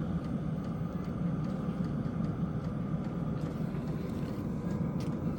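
Diesel air heater running steadily, a continuous drone of its combustion blower and burner as it settles toward its operating level.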